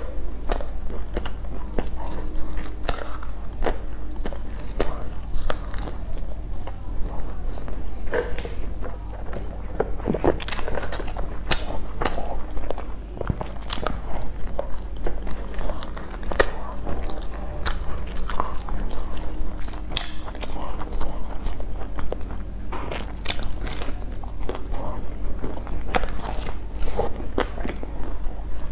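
Close-miked biting and chewing of soft braised shiitake mushroom caps: irregular mouth clicks and smacks throughout, over a steady low hum.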